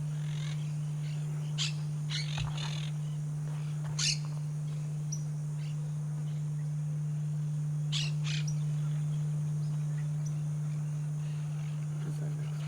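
Short bird calls scattered through a field recording: a few quick notes early on, the loudest call about four seconds in, and a close pair a little past the middle. A steady low hum runs underneath.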